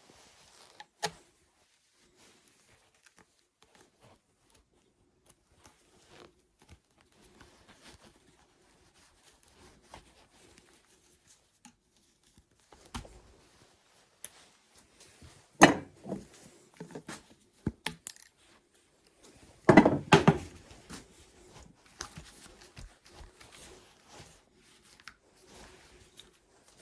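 Hand tools and small metal objects being handled on a workbench: scattered clinks and light knocks, with two louder clatters, one past the middle and one about three quarters of the way in.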